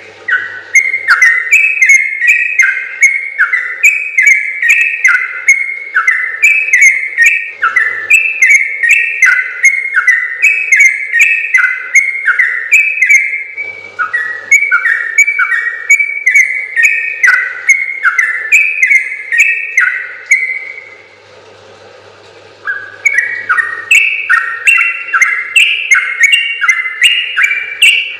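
Yellow-vented bulbul (trucukan) singing a long, rapid run of short, fluting notes, phrase after phrase with hardly a break. It stops for about two seconds around three quarters of the way through, then starts again.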